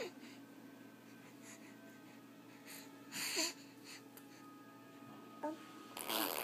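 Baby blowing wet raspberries with her lips: two short spluttering bursts, one about three seconds in and one near the end, each with a tiny squeak of voice.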